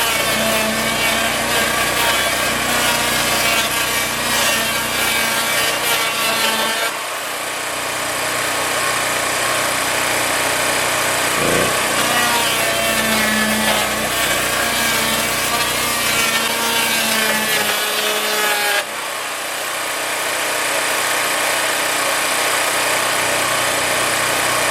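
A woodworking power machine cutting into a rough-sawn board in two passes. Each pass ends abruptly, and near the end the motor keeps running with no load.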